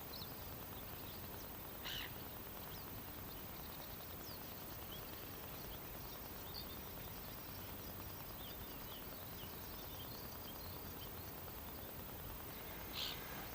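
Small birds chirping and singing faintly over a steady background hiss of outdoor ambience, with two brief louder high calls about two seconds in and near the end.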